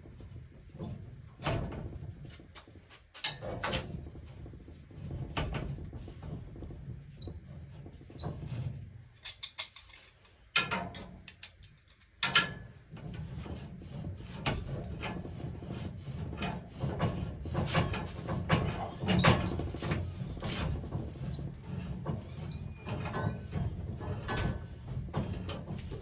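Irregular metallic knocks, clicks and scrapes of hand tools working on gas pipe fittings, with a couple of louder clanks about ten and twelve seconds in, over a steady low hum.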